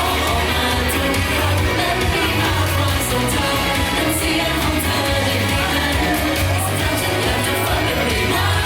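Pop song playing loud, with singing over a heavy, steady bass line.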